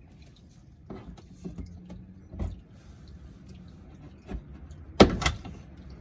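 Scattered clicks and knocks of tools and parts being handled during an oil change. The loudest is a quick pair of sharp metallic knocks about five seconds in.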